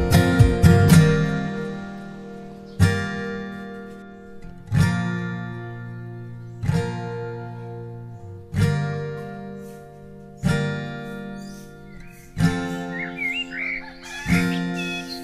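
Background music: acoustic guitar chords struck about every two seconds, each left to ring out and fade.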